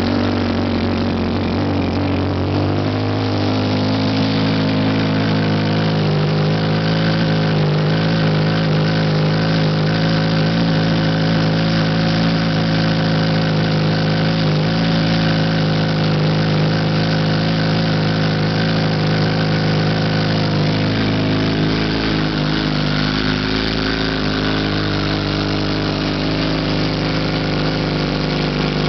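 2008 Yamaha R1's inline-four engine, breathing through a Two Brothers Racing slip-on exhaust, idling steadily just after a cold start.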